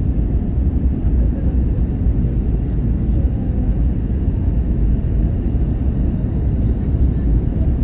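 Steady low rumble of cabin noise inside an Airbus A321-111, the sound of its CFM56 engines and the airflow over the fuselage, even in level throughout.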